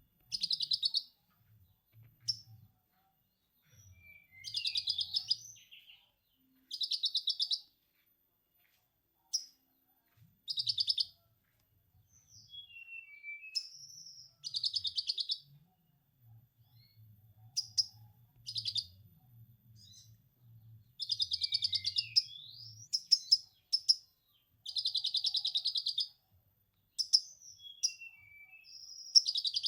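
Konin lovebird giving its 'ngekek' chatter: bursts of very rapid, high chattering notes lasting about a second each, about nine in all, with short chirps and squeaks in the gaps.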